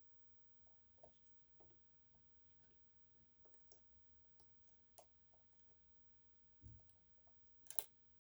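Faint, scattered clicks and ticks of a short flat hook probing the sliders of an EVVA 3KS high-security lock held under tension. There is a soft low thump near the end, then one sharper, louder click.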